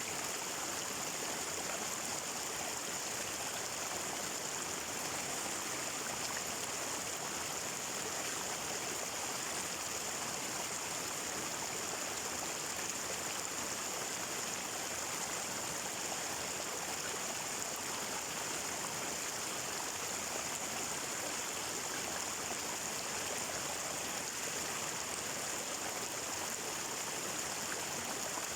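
Flowing water running steadily, an even rushing sound with no changes or breaks.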